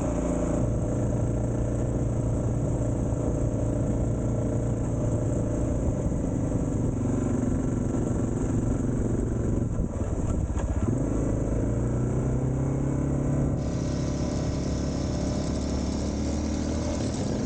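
Suzuki DR650's single-cylinder four-stroke engine running under way. The engine note dips briefly about ten seconds in, then climbs again as the revs rise, and a steady hiss comes in near the end.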